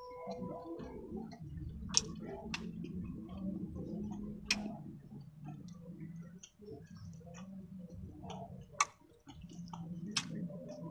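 Close-miked chewing and wet mouth sounds of someone eating squid adobo and rice by hand, with a handful of sharp clicks and many small ones over a low steady hum.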